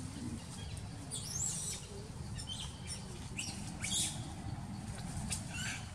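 Birds chirping: scattered short, high calls with a quick up-and-down trill about a second in, over a steady low rumble.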